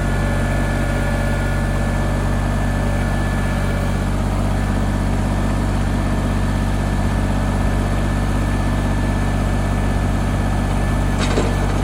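Compact John Deere tractor engine running steadily at an even, unchanging speed, with a short sharp click near the end.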